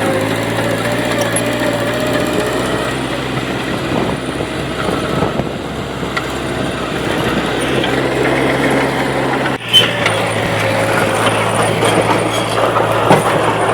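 Diesel engine of a small D20P crawler bulldozer running steadily at a constant pitch while it works. About nine and a half seconds in the sound breaks off briefly, then a sharp knock is heard and the engine carries on.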